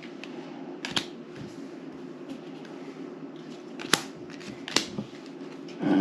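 Playing cards being put down on a table: three sharp snaps, about a second in, near four seconds and just before five seconds, over a steady low hum.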